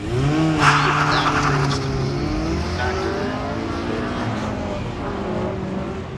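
Autocross car's engine revving hard as it pulls away, its pitch rising and falling with throttle and gear changes, with a loud noisy burst about a second in.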